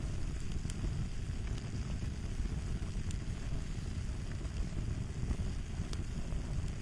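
Wood fire crackling: a steady low rumble of burning with scattered sharp pops and snaps.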